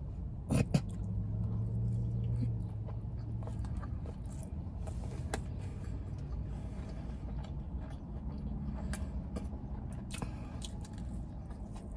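Close-miked chewing of a glazed donut and fried chicken: soft wet mouth noises with scattered lip smacks and clicks, the sharpest about half a second in.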